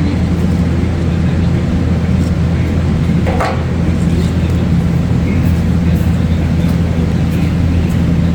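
Steady low machine hum at an even pitch, with a single sharp click about three seconds in and a few faint light ticks.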